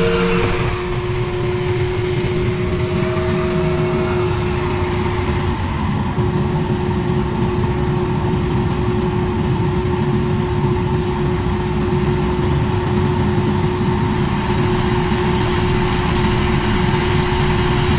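A-10 Thunderbolt II's twin General Electric TF34 turbofan engines running at low taxi power: a steady whine over a low rumble.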